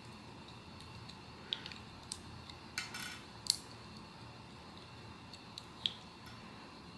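Blind box packaging being handled: a few light clicks and taps of card and plastic, with a short crinkle about three seconds in and the loudest click just after it.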